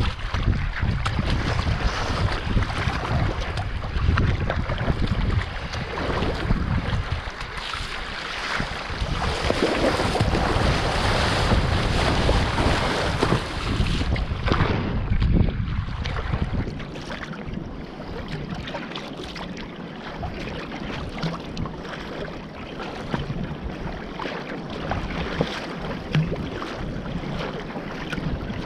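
Wind rumbling on the microphone over sea water splashing around a kayak. The wind rumble eases about two-thirds of the way through, leaving the water sounds.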